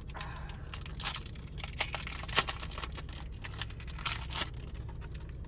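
A foil Pokémon card booster pack being torn open and crinkled: an irregular run of crackling rustles and sharp tearing snaps.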